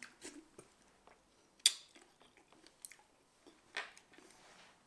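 Close-up chewing of a mouthful of small red berries dusted with chili powder: scattered soft wet clicks and squishes, with a sharper click a little under two seconds in and another near four seconds.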